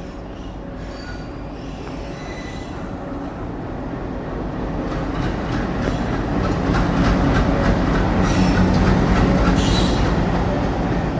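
Indian Railways train moving through a station, its rumble growing steadily louder over most of the clip, with faint wheel squeal early on and clicking from the wheels in the louder second half.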